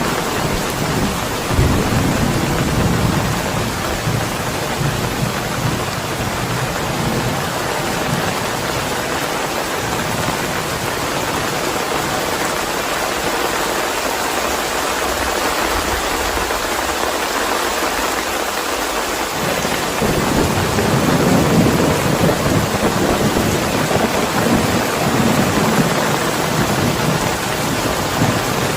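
Steady rain with thunder rumbling: a low rumble about two seconds in, and a longer one that starts about twenty seconds in.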